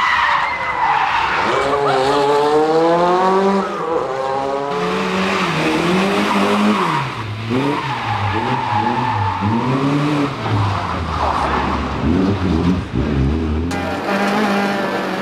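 Competition car engine revving hard, its pitch swinging quickly up and down, with skidding tyre noise over it. The sound changes abruptly near the end.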